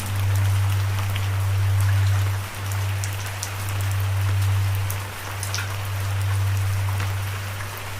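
Steady rain hiss with scattered sharp drips, over a loud low hum that swells and dips about every two and a half seconds.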